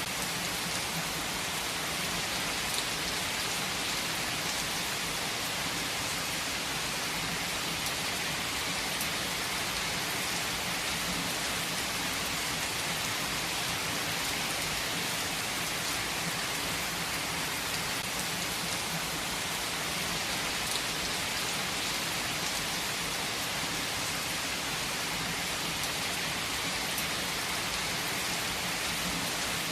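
Heavy rain falling steadily: an even hiss with a few sharper drop ticks.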